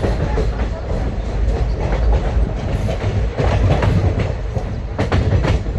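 Indian Railways train running on the rails: a steady heavy rumble with the wheels clacking over rail joints in repeated groups of sharp clicks.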